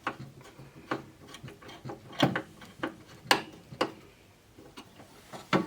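Irregular clicks and knocks of small parts and hand tools being handled on a wooden pinball playfield during reassembly, with louder knocks a little after two seconds, a little after three seconds and near the end.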